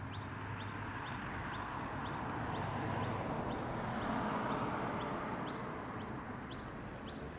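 A car driving past, its engine and tyre noise swelling to a peak about four seconds in and then fading, while a small bird chirps steadily about twice a second.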